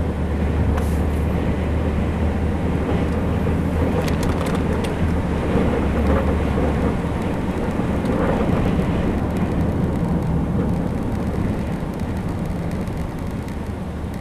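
A car's engine and road noise, a steady low hum under a rushing haze, with a few faint clicks.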